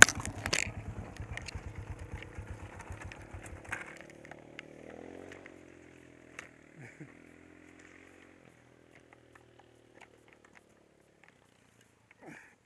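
A knock at the start, then a Honda dirt bike's engine idling while the bike lies on its side after a fall; the engine cuts out about four seconds in. Afterwards another motorcycle's engine is heard faintly, rising and falling in pitch as it comes along the track.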